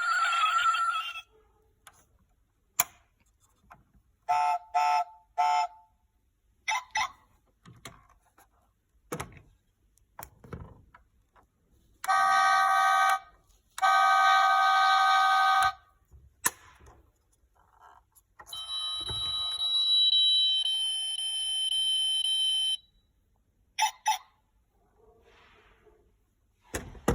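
Battery-powered toy car's electronic sound effects from its small speaker: a few short beeps, then two long buzzing tones, then a longer stretch of tones with a hiss, with scattered clicks and knocks between them.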